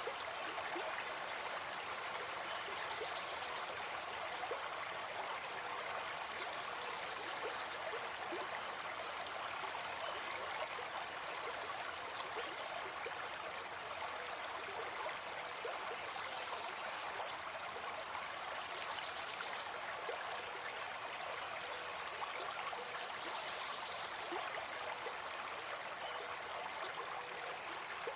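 Gentle forest stream flowing: a steady, even rush of water.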